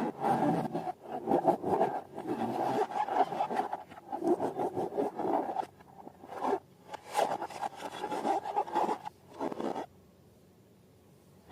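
Hands squeezing and rubbing slime and balloons, a quick irregular run of wet, rubbing squelches. It stops about ten seconds in.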